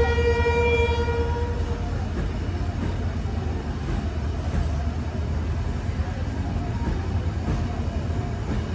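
A train horn sounds one blast at the start, fading out after about a second and a half, over the steady low rumble of passenger coaches rolling past on the track.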